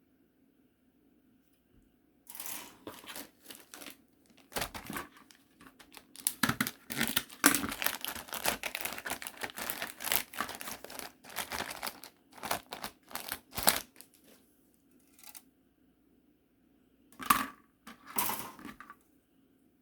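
Plastic kit packaging crinkling as it is handled, in dense bursts of rustling, then after a pause two more short crinkles near the end.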